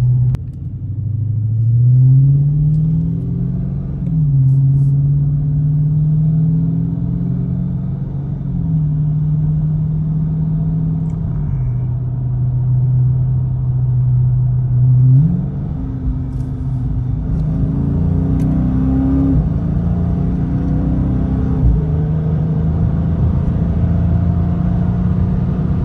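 Dodge Charger Scat Pack's 6.4-litre 392 HEMI V8 on its stock exhaust, under a light part-throttle pull from about 40 mph. The engine note climbs and drops back at upshifts about 4 and 9 seconds in, holds steady at a cruise, then climbs again about 15 seconds in.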